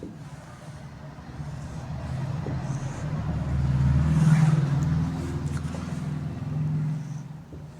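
A motor vehicle's engine going past, growing louder to a peak about four seconds in and then fading away.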